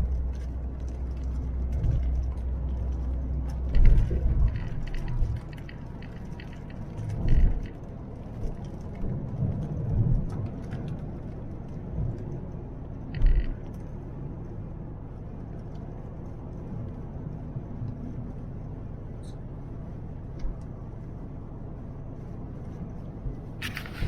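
Car interior road noise while driving on a highway: a steady low rumble of engine and tyres, heaviest for the first five seconds, with a few short knocks and bumps along the way.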